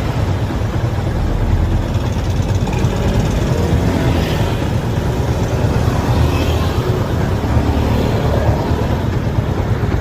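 Motorcycle on the move, engine running steadily under a heavy, even low rumble.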